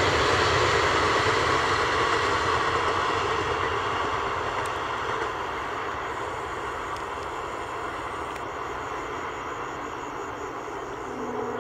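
Passenger train's coaches rolling past on the track, a steady rushing rumble of wheels on rail that fades away as the train recedes. A low steady tone comes in near the end.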